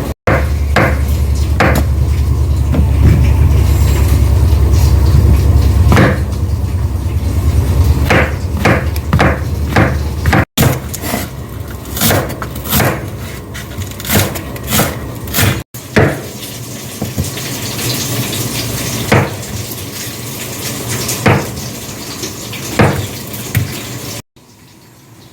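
Kitchen cooking sounds: utensils, dishes and pots knocking and clinking, with a loud low steady rumble for the first six seconds. The sound breaks off abruptly several times.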